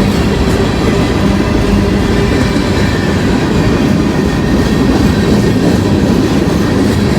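Freight train cars rolling past, a loud steady rumble of steel wheels on the rails.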